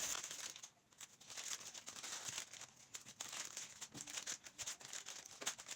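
Paper cupcake cases crinkling and tearing as they are peeled off chocolate cupcakes: a quiet, irregular run of crackles and rustles.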